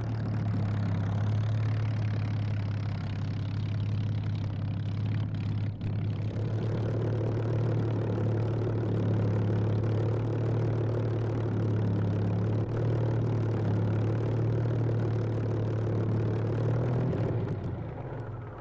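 Rolls-Royce Merlin V12 engine of a Supermarine Spitfire 5C running at a steady pitch, fading away near the end.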